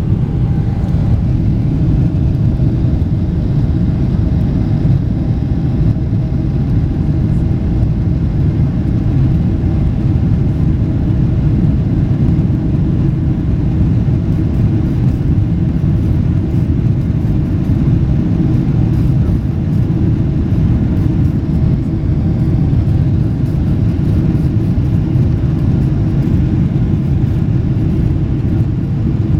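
Boeing 777-300ER's GE90 turbofan engines at takeoff power, a loud, steady low rumble with a faint tone above it.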